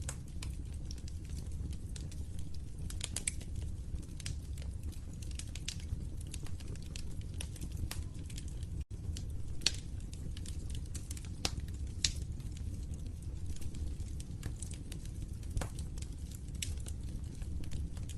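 Wood fire in a fireplace crackling, with irregular small snaps and a few louder pops over a steady low rumble of burning. A very brief dropout about nine seconds in.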